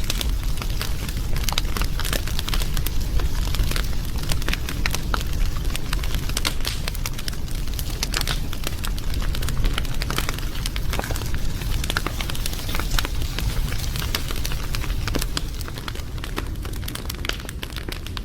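Wood fire burning, with irregular sharp crackles and pops over a steady low rumble. It gets slightly quieter near the end.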